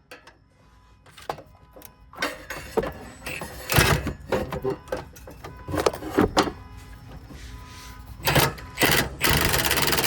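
Scattered metallic clanks and knocks of tools and suspension parts being worked on, then about nine seconds in an impact wrench starts running with a dense, rapid hammering.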